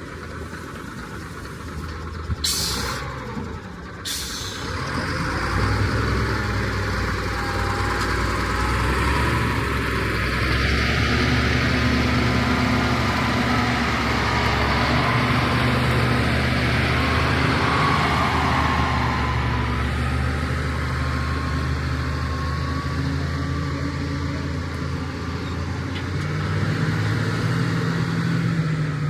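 A heavy truck's engine running close by, growing louder about five seconds in and then holding steady, with two short bursts of hiss near the start.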